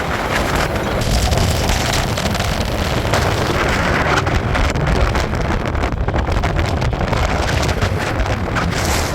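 Strong gale-force wind blasting across the microphone: a loud, continuous rushing and buffeting noise, heaviest in the low end, with constant rapid flutter.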